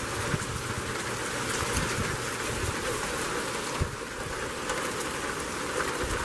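Heavy rain falling in a thunderstorm: a steady rush with the patter of drops, with gusty wind buffeting the microphone in low thumps.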